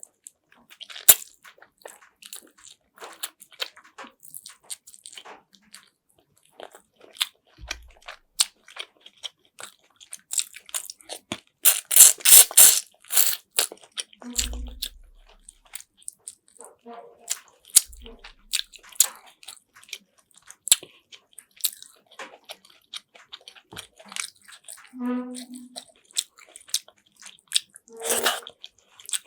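A person eating chicken afritada right at the microphone: chewing and biting with many short wet mouth clicks and smacks, loudest for a couple of seconds about midway, with a brief hum near the end.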